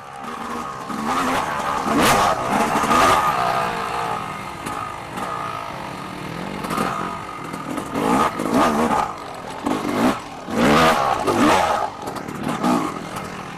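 Dirt bike engine revving up and down over and over as it is ridden, with several short bursts of noise.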